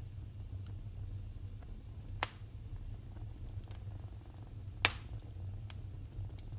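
Wood fire burning in a fireplace: a low steady rumble with two sharp crackling pops about two and a half seconds apart and a few faint ticks between them.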